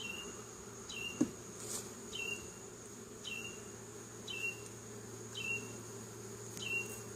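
Honeybees buzzing around an open hive as a steady low drone. A short, high chirp repeats about once a second, and there is one sharp knock just over a second in.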